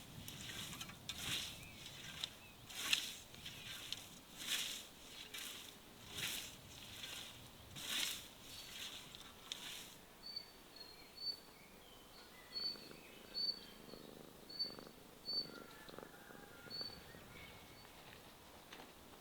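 Regular rasping or scraping strokes, about one a second, stop about halfway through. A bird then chirps a series of short, high notes with a few lower whistles in between.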